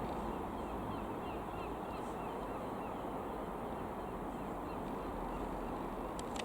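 A bird calling in a quick run of short, repeated chirps, about three a second, that stop about halfway through. Under it is a steady outdoor rumble, with a few faint clicks near the end.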